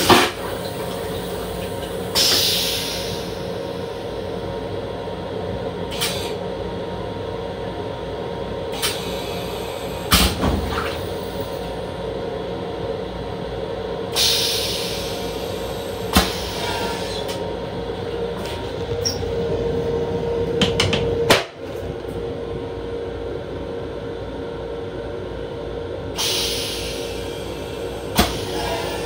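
Steady hum and running noise of an MTA Long Island Rail Road M7 electric railcar, heard from inside its small restroom. A short, fading hiss comes about every twelve seconds, and there are a few sharp knocks and rattles.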